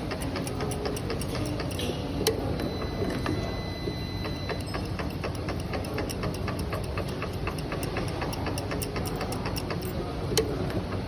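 CNC spring-forming machine running, a rapid steady mechanical ticking, with a sharper click about two seconds in and another near the end.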